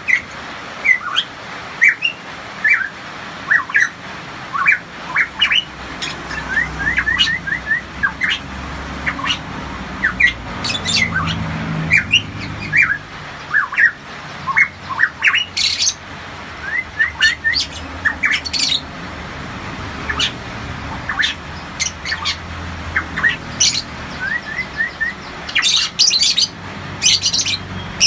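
Pitohui singing repeatedly, a string of short whistled notes and quick runs of rising notes. Harsher, rasping calls break in at intervals and come thickest near the end.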